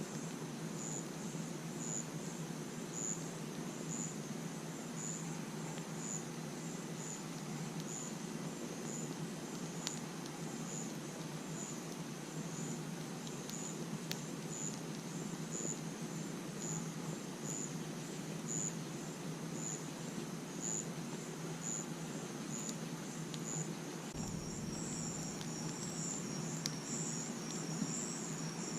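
Crickets chirping, a regular high chirp about once a second, with a second, continuous insect trill joining near the end. Beneath them a campfire's steady low rush with a few sharp crackles.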